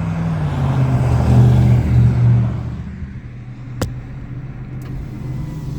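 Car engine running under acceleration, then easing off about three seconds in. There is a single sharp click just before the four-second mark.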